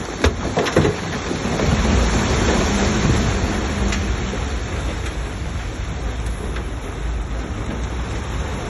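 Diesel engine of a Shantui DH17C3 crawler bulldozer running under load, with a steady noisy rush over it. Two sharp knocks come in the first second, and the engine sound grows heavier about two seconds in.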